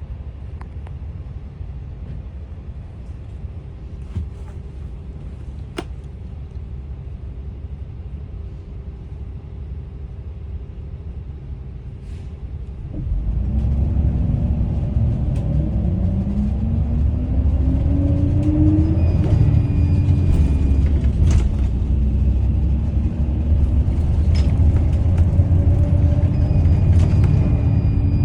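Daewoo FX116 bus's diesel engine running at a steady low idle. About 13 seconds in it pulls away: the engine gets much louder and climbs in pitch, drops back at a gear change, then climbs again. Two short high beeps sound during the pull-away.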